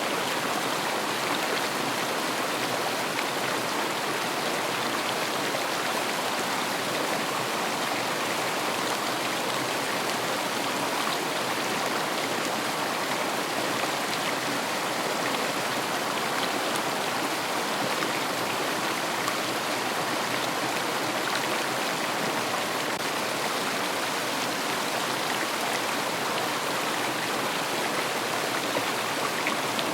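River water flowing steadily over stones, an even rushing that does not change.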